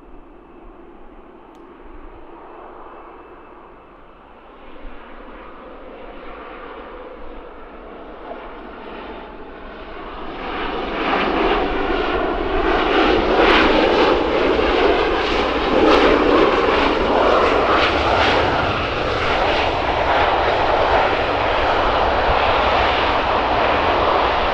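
Jet airliner's engines growing from a distant rush to a loud, steady roar as the aircraft nears, then cut off abruptly at the end.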